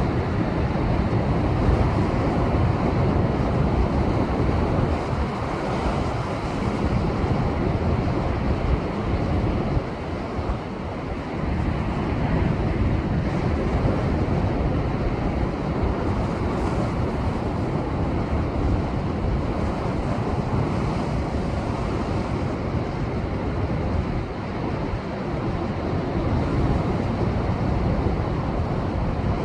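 Rough post-typhoon sea surging and breaking against shoreline rocks in a continuous rush of surf, with wind buffeting the microphone.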